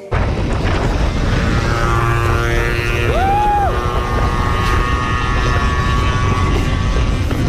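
Motorcycle on the move: steady engine and wind rumble on the microphone, with engine tones. A brief tone that rises, holds and falls sounds about three seconds in.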